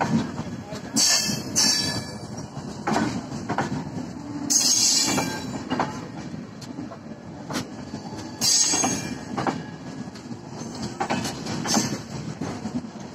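Passenger coaches of an Indian Railways express train rolling past at close range: a steady wheel rumble with irregular knocks and clacks from the wheels on the track, broken by several brief high-pitched wheel squeals.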